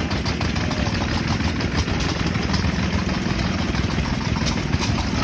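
Antique hit-and-miss stationary gas engines running, a steady run of quick exhaust beats.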